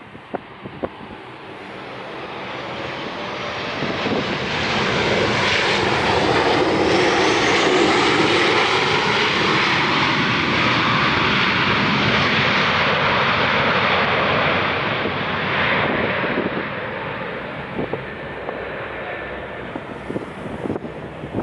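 Airliner engines passing close by, the noise building over the first few seconds, holding loud with a whine that rises and then falls in pitch as the plane goes past, then easing off near the end.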